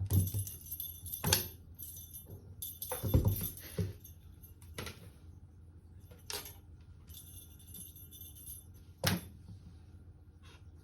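A small bell jingling in bursts as a kitten plays, with several sharp thumps and knocks in between.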